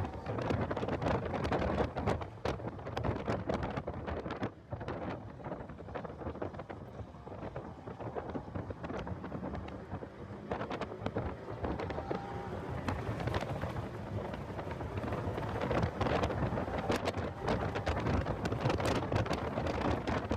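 Heavy wind buffeting and crackling on the microphone of a car lapping a race track, with a brief dip about four and a half seconds in.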